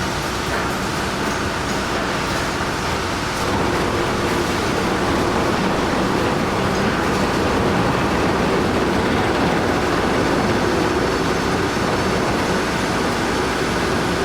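Heavy construction machinery running: a loud, steady mechanical din that grows a little louder about three and a half seconds in.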